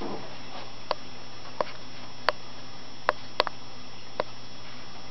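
Steady low hum of a fish tank, broken by about seven sharp clicks at irregular intervals, the loudest near the middle.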